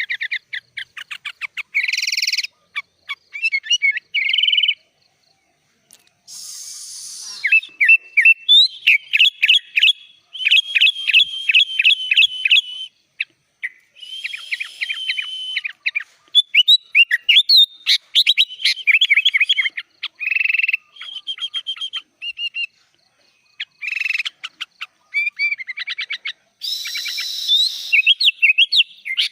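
Sooty-headed bulbul (kutilang) in full song: long runs of quick, high chirps and trilled notes that rise and fall, broken by a couple of short pauses.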